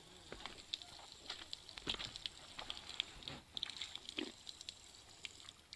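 Faint, irregular clicks and crackles with a few soft knocks over a low hiss.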